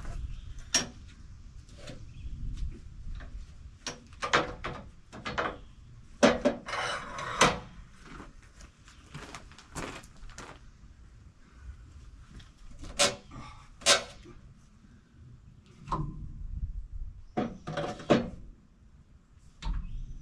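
Scattered metal clanks and wooden knocks, with a short scraping rush about seven seconds in, as a heavy log is rigged and rolled over on a sawmill bed.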